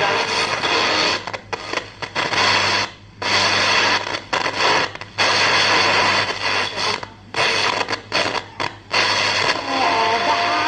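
Tanin AM radio receiver giving out loud static hiss over a steady low hum, the noise cutting out and back in many times. Near the end, warbling whistle tones come in as a signal is picked up.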